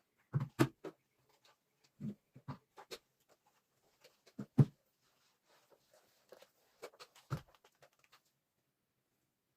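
Irregular light knocks, taps and clatters of household objects being handled, in small clusters, the loudest a little past four and a half seconds in.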